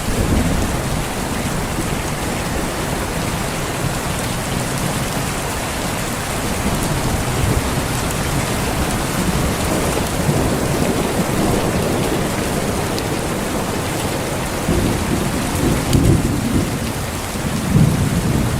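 Steady heavy rain with low rolls of distant thunder, swelling in the middle and twice more near the end.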